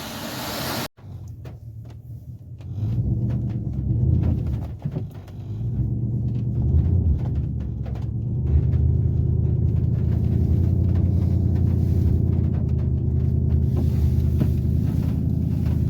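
Vehicle engine running hard with a low, steady drone, rising in surges before settling into a constant pitch about eight seconds in; the vehicle is stuck.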